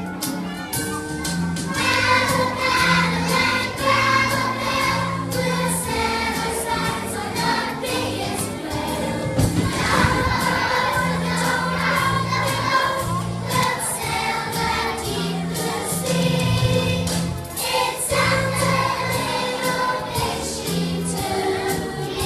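Music: a group of voices singing a song over instrumental backing with a repeating bass line.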